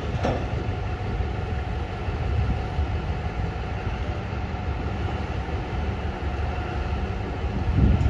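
Electric rope shovel loading a 190-tonne haul truck: a steady low machinery rumble, with a loud low thump near the end.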